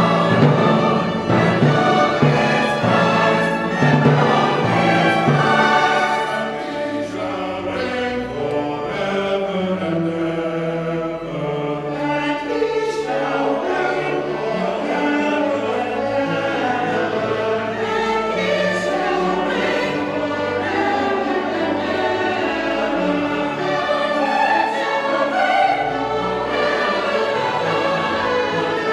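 Choir singing with orchestral accompaniment, many sustained voices and instruments together, a little softer after the first few seconds.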